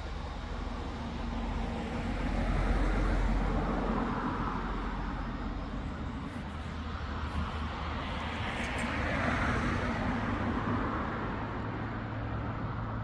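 Diesel train running through the station, a steady low engine hum under a rushing rolling noise that grows louder about three seconds in and again around nine seconds.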